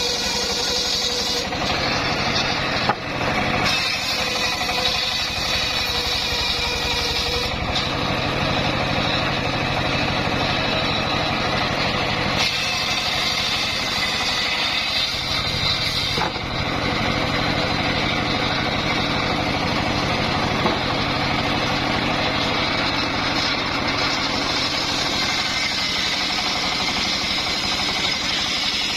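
Engine-driven sawmill machinery running steadily, with a few brief changes in tone.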